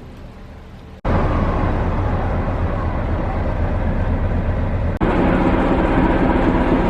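Diesel locomotive engine running steadily, a loud low drone. It cuts in abruptly about a second in and jumps again about five seconds in, where it is slightly fuller.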